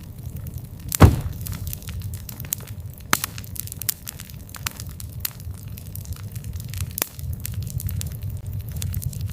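Campfire burning with a steady low rumble and irregular sharp crackles and pops of burning wood, the loudest pop about a second in.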